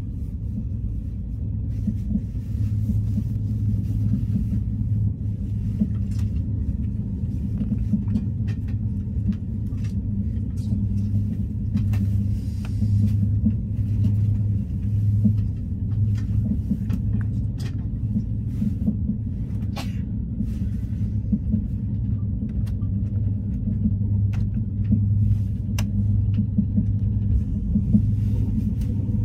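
Steady low rumble of a passenger train running, heard from inside the carriage, with faint scattered clicks and rattles over it.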